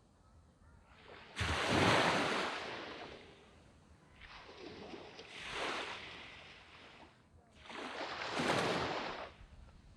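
Waves breaking and washing up a sandy beach, three in a row about three seconds apart; the first, coming in suddenly about a second and a half in, is the loudest.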